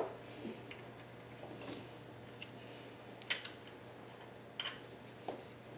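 A few sharp, scattered metal clicks and clinks from hand tools and a bolt being handled during engine mount work, the loudest about three seconds in, over a faint steady hum.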